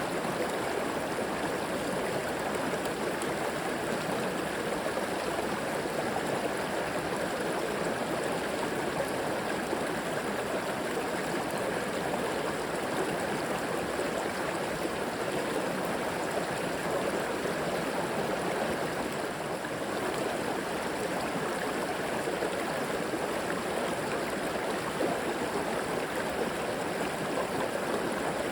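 River water flowing and babbling over rocks, a steady rushing noise with no breaks.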